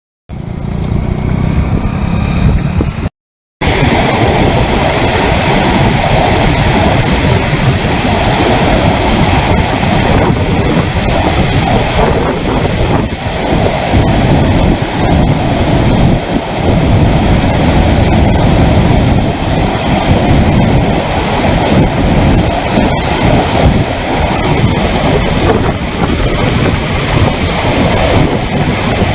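Floodwater rushing loudly and steadily as it spills over the overflowing lake's weir, with wind buffeting the microphone. The sound cuts out briefly at the very start and again about three seconds in.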